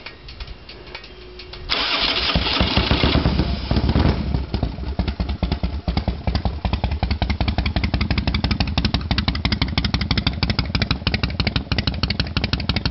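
1997 Harley-Davidson Road King's Evolution V-twin, fitted with high-compression pistons, a Woods cam and Hooker exhaust, cranked on the starter about two seconds in. It fires and catches with a quick rise in revs, then settles into a steady, rhythmic idle with a nice deep rumble.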